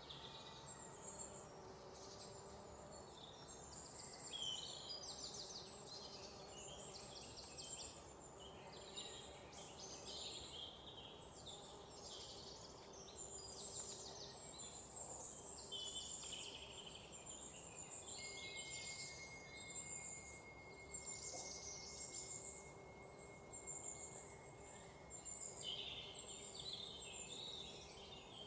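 Several birds chirping and trilling together, calls overlapping with fast rattling trills, over a faint steady background hum. About two-thirds of the way in, a thin, steady high tone joins and holds to near the end.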